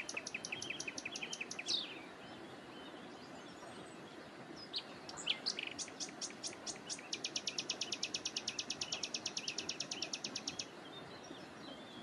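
A small bird singing in rapid, evenly spaced high chirps over a steady background hiss: a short run at the start, then a longer, very regular trill of about eleven notes a second that lasts several seconds and stops near the end.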